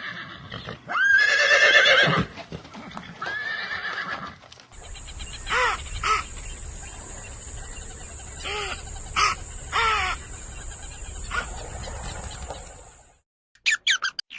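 Animal calls: a few drawn-out pitched calls, then several short calls falling in pitch over a steady high hiss. The sound cuts off near the end.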